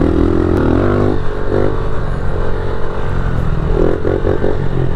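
Small pit bike engine running, its pitch rising in a rev shortly after the start and blipped up briefly a couple more times.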